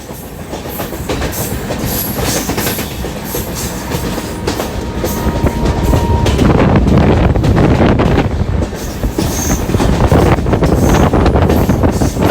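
Express passenger train running past, wheels clattering rhythmically over the rail joints, getting louder about halfway through, with a couple of brief high wheel squeals near the end.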